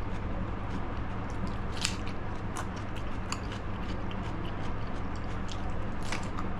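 A person chewing and biting food close to the microphone, with crisp crunching clicks scattered through, over a steady low hum.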